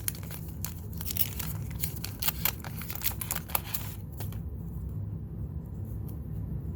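Wax paper trading-card pack wrapper being torn open and crinkled, a dense crackling for about four seconds that then dies down, over a steady low hum.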